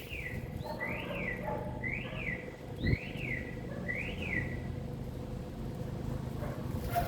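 A bird calling: five short notes, each rising then falling in pitch, about a second apart, then stopping, over a steady low background rumble with a brief knock about three seconds in.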